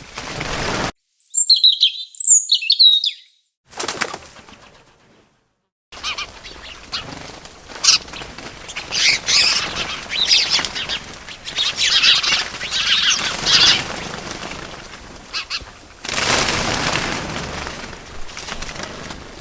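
Small birds chirping in short, high calls, with bursts of wings flapping, broken by about two seconds of dead silence a few seconds in.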